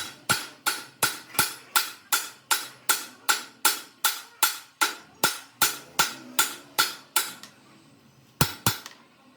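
A hammer striking metal in a fast, even rhythm of about three ringing blows a second. The blows stop about seven seconds in, and two more follow shortly after.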